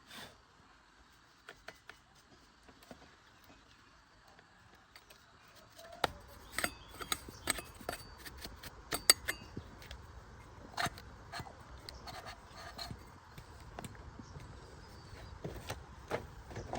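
Scattered clinks and knocks of metal tools and parts being handled. They are faint and sparse for the first few seconds, then come more often and louder about halfway through.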